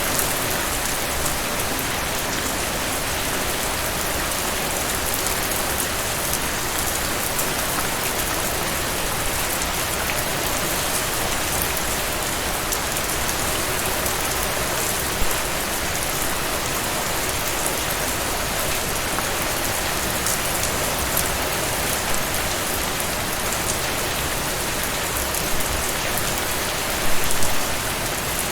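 Heavy rain falling steadily, a dense even hiss of drops on surfaces, with a few sharper, louder drop hits, the clearest cluster near the end.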